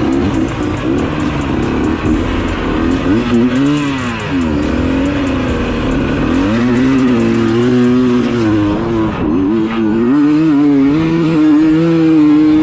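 Dirt bike engine revving, its pitch dropping and climbing again a few times as the throttle is worked, then holding steadier near the end.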